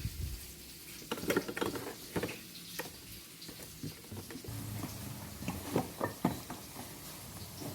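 Irregular light knocks and clicks, a few clustered at a time, as of objects being handled and set down.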